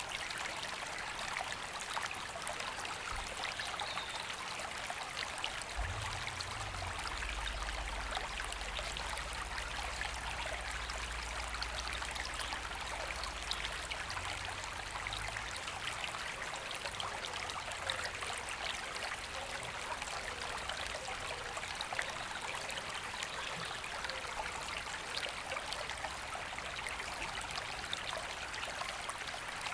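River flowing steadily, a constant rush of water. A faint low rumble sits underneath from about six seconds in until about sixteen seconds.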